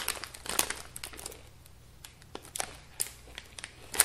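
Sharp crackles and crunches from ready salted potato crisps and their packet: a dense cluster in the first second, then scattered single crackles.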